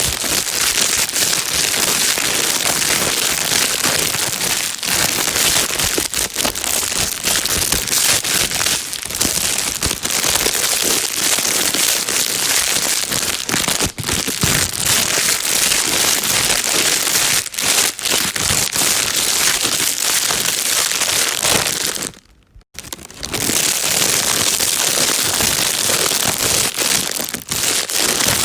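Plastic bag being crinkled continuously: a dense, even crackle of tiny clicks, used as white noise for soothing a baby. It breaks off for about half a second roughly three-quarters of the way through, then carries on.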